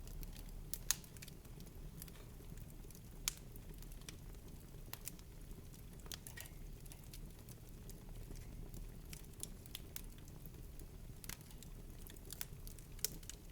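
Wood fire in a fireplace crackling: scattered sharp pops and snaps at irregular intervals over a faint low rumble, the loudest pops about a second and three seconds in.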